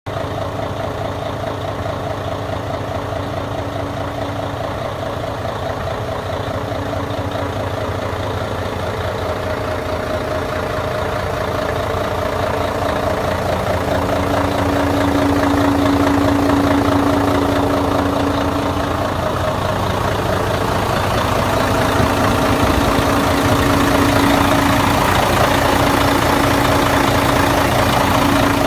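Mercedes-Benz 1841 tank truck's diesel engine idling steadily, growing somewhat louder about halfway through.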